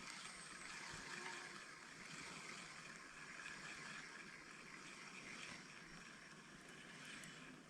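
Faint, steady rushing of a small stream's flowing water.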